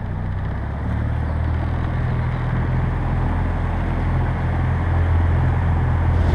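Motorboat engine running under way with water and wind noise: a steady low drone that grows slowly louder as the boat picks up speed.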